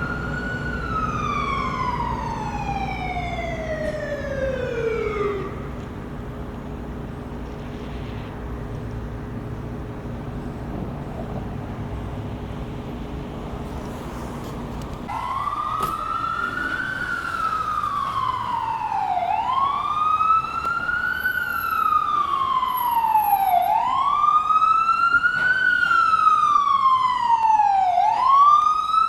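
Ambulance siren wailing: one long falling sweep that winds down and stops about five seconds in, leaving the vehicle's low engine rumble. About fifteen seconds in, the wail starts again, rising and falling in slow cycles of about four seconds and growing louder toward the end.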